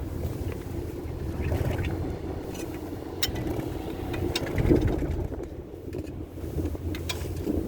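Four-seat chairlift running, with a steady low rumble and wind on the microphone. A few sharp clicks and a louder clatter a little past the middle.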